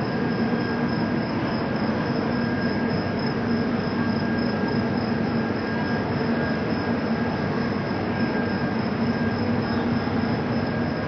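Double Decker Express passenger train running, an unbroken rumbling rush of wheel and track noise with a thin steady whine held above it.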